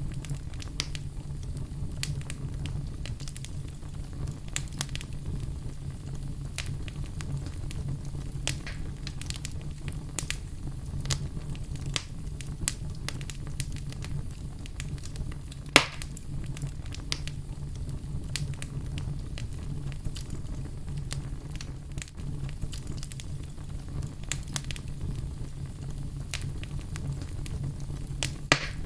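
Wood fire in a fireplace crackling: frequent small snaps over a steady low rumble, with a sharp, louder pop about halfway through and another near the end.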